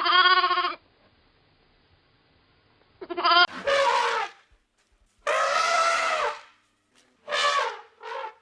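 A series of bleats: a short one right at the start, then five more calls, each under a second long, coming every second or two.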